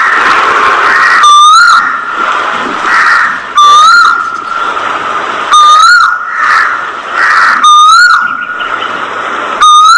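A whistle-like tone that rises and then holds, repeated the same way about every two seconds over a steady background din.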